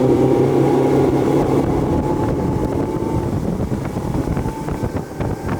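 Steady low rumbling noise with a low hum that fades out about a second and a half in.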